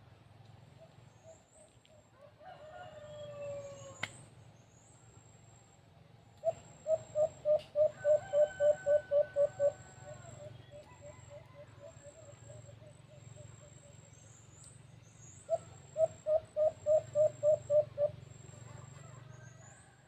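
A rooster crows once about three seconds in. Then a bird calls in two fast runs of short hooting notes, about four a second: a longer run after about six seconds and a shorter one near the end. A faint thin high trill sounds throughout.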